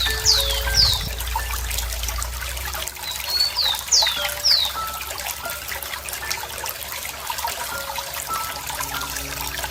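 Running water trickling steadily, with a bird calling in two bursts of three or four sharp, downward-sliding whistles: one at the start and another about three to four and a half seconds in.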